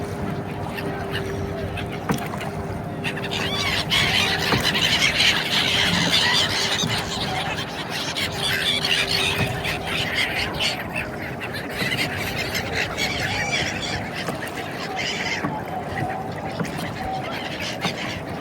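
A flock of birds calling together, many short overlapping calls that thicken into a dense chatter through the middle and thin out near the end, over a steady low hum.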